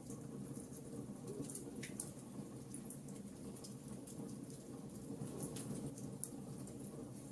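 Fire in a fireplace crackling, with many small snaps and pops over a low, even rumble; one sharper pop about two seconds in.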